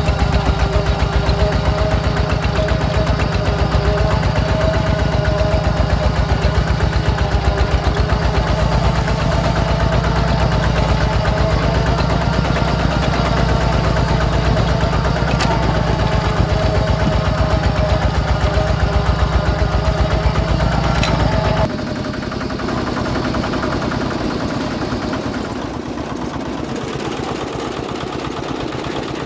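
Small Yanmar diesel engine of a homemade mini tractor / power tiller running with a steady, rapid chugging. About three-quarters of the way through the sound changes abruptly to a quieter running, with most of the deep throb gone.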